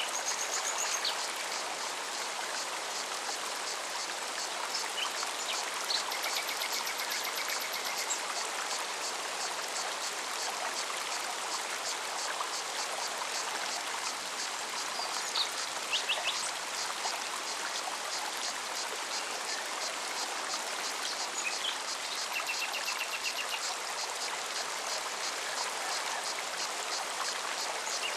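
Mountain forest stream running steadily over rocks. Short bird calls come a few times over it, and a fast high ticking, like an insect's pulsing song, runs through the middle stretch.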